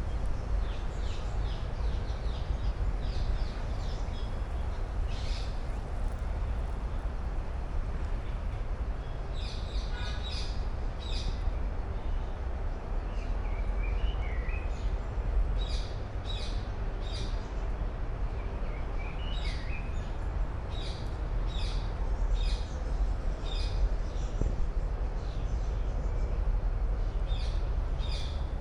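Small songbirds chirping repeatedly, in short bursts and quick runs, over a steady low rumble.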